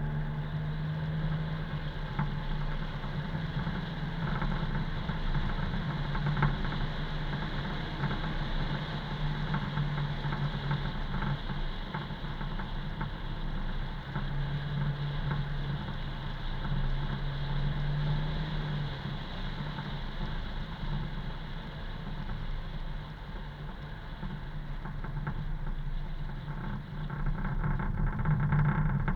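Car driving along a road: a steady engine hum with tyre and road noise, growing a little louder near the end.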